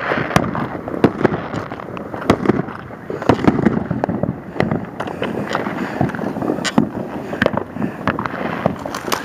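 Fireworks going off: many sharp pops and bangs at irregular intervals over a continuous din.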